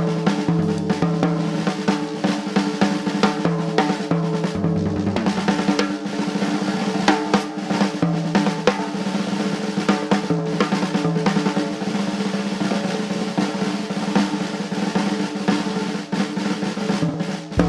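Jazz drum kit played busily, with rapid snare rolls and bass drum hits, over sustained lower notes from the band.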